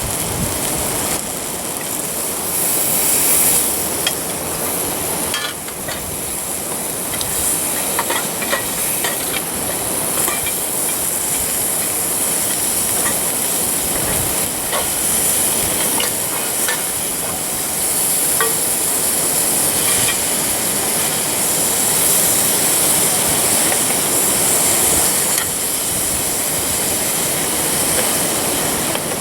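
Food sizzling in a small grill pan over a wood fire: a loud, steady hiss with scattered small pops and crackles.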